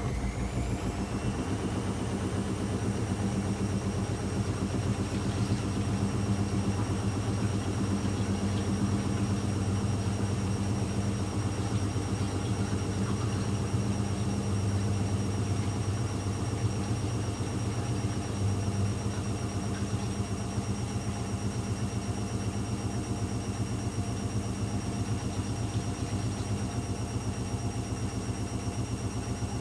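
AEG Electrolux Lavamat L74810 washing machine with its drum spinning: the motor whine rises over the first couple of seconds, then holds at a steady speed over a constant low hum.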